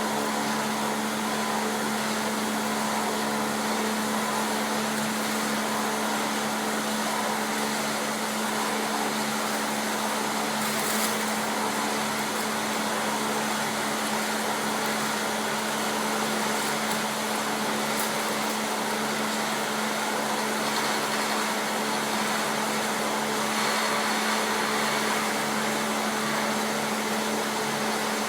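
Electric-driven Taiga OS log rounding machine running steadily: an even whirring with a constant low hum and no breaks.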